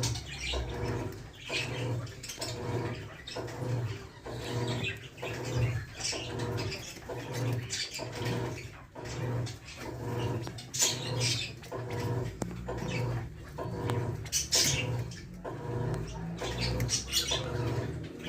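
California quail calling, sharp high calls scattered over a low pulsing sound that repeats a little under twice a second.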